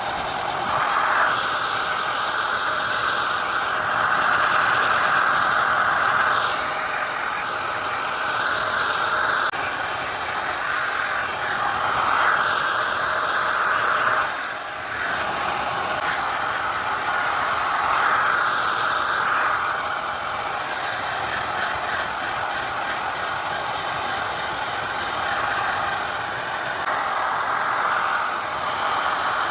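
Handheld hair dryer running steadily, its blowing sound swelling and easing every few seconds, with a brief drop about fifteen seconds in.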